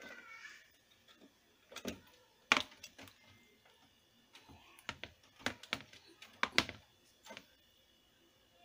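Irregular sharp clicks and knocks of plastic parts being handled on a portable air conditioner, the loudest about two and a half seconds in, as the unit is readied to drain its full water tray.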